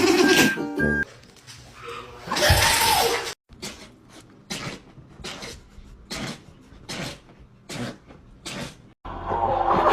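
A dog sneezing: one louder sneeze, then a quick run of short, sharp sneezes, more than half a dozen, each under a second apart.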